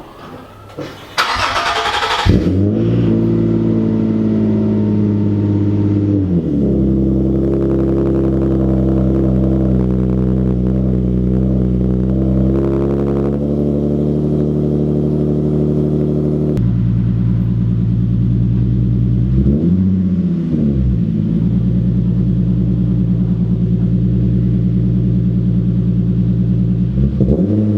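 Nissan 370Z's 3.7-litre V6 starting up about a second in, then idling steadily, with a few short throttle blips that rise and fall in pitch.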